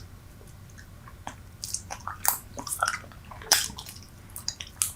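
Close-miked chewing of Super Bubble bubble gum: irregular wet smacks and sharp clicks of the mouth and gum, a few a second after a quieter first second. The gum has gone hard.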